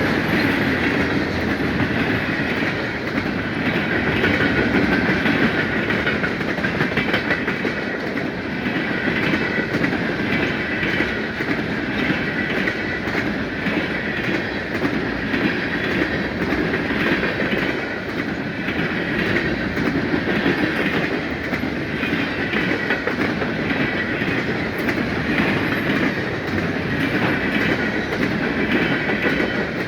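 Freight train cars rolling steadily past: a continuous rumble with wheels clicking over the rail joints and a steady high ringing from the wheels on the rails.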